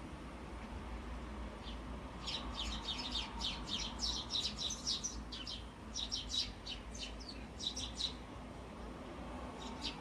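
Several Eurasian tree sparrows squabbling with a rapid flurry of sharp, overlapping chirps that starts about two seconds in and dies down around eight seconds. A brief burst of chirps follows near the end.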